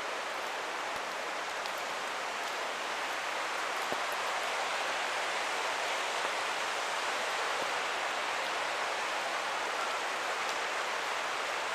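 Steady rushing of a forest creek in the rain: an even hiss that grows slightly louder a few seconds in, with a few faint ticks.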